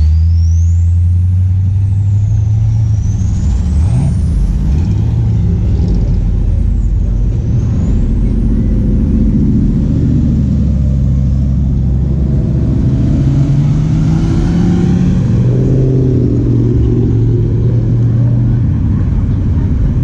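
Loud engine and exhaust rumble of a cruising car passing on the street, deep and steady with shifts in pitch as it pulls along. A thin, high wavering whistle rises and falls over it during the first half.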